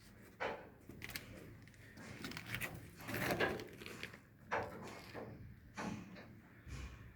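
Wood-chip biomass boiler furnace with moving step grates, giving irregular sliding, scraping knocks about once a second, the longest and loudest about halfway through.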